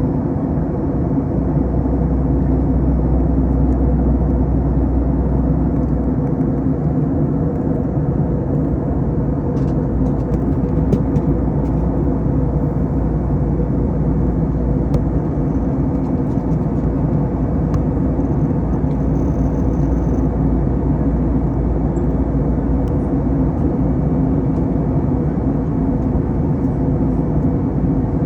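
Steady cabin drone of an Airbus A321 in flight, from its jet engines and the airflow, with a low hum of steady tones running through it. The deepest rumble eases about six seconds in.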